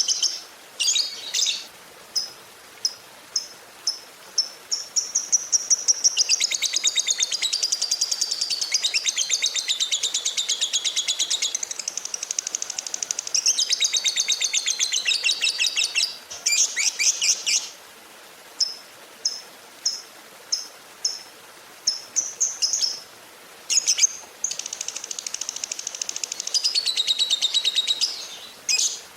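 Lovebird singing: short, high chirps about two a second, broken by long, fast chattering trills that each run for several seconds.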